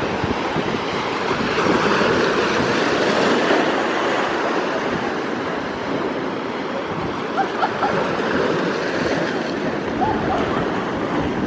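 Rough Black Sea surf from a storm, waves breaking and washing in steadily with wind buffeting the microphone, swelling louder a couple of seconds in.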